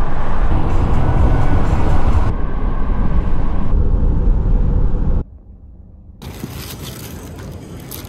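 Steady low rumble of road and engine noise from a Subaru driving at speed. It cuts off suddenly about five seconds in, giving way to much quieter outdoor ambience with a few faint clicks.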